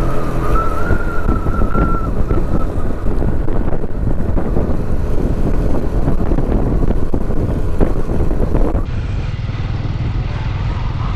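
112 cc TVS Victor motorcycle's single-cylinder four-stroke engine running on the move, with wind rushing over the microphone. About nine seconds in the sound turns quieter and steadier.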